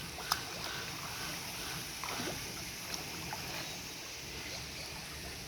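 Steady rush of running water, with one sharp click shortly after the start and a few faint, brief chirps.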